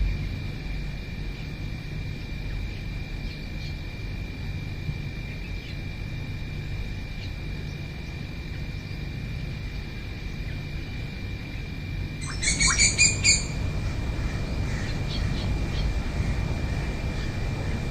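A bird gives one loud, rapid burst of about six harsh repeated notes about twelve seconds in. Around it are faint scattered chirps, a steady high thin whine and a low rumble.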